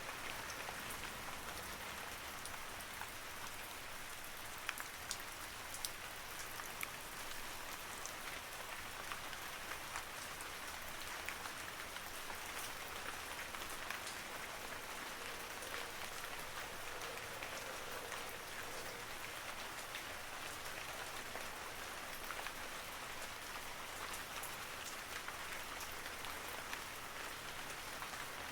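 Steady rain falling on a surface, an even hiss with many separate drop taps scattered through it.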